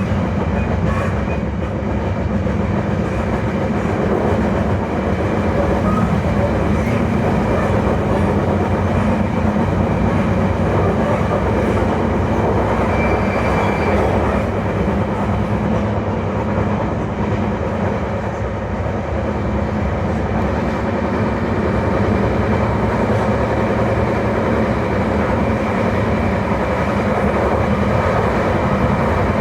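E721 series electric multiple unit motor car (MoHa E721-1013) running with a steady, loud abnormal running noise and a constant low hum. The owner takes the noise to come from wheels in poor condition.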